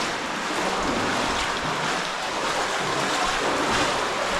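Spring-fed cave stream rushing steadily: a continuous hiss of running water.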